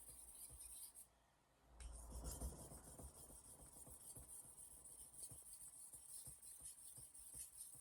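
Steel blade of a Misono 210 mm Japanese knife being stroked across a whetstone, a faint repeated scraping. The strokes pause briefly about a second in, then carry on.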